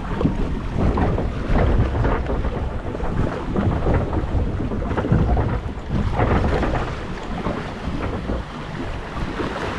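Water rushing and splashing around a water-ride boat as it travels along the channel, with a low buffeting rumble of wind on the microphone.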